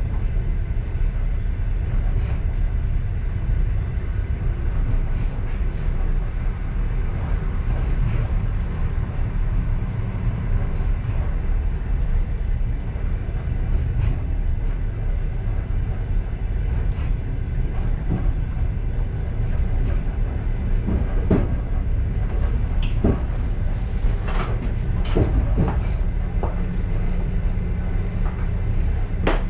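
Passenger train car running on rails, a steady low rumble heard from inside the car. Sharp rattles and knocks come more often in the second half.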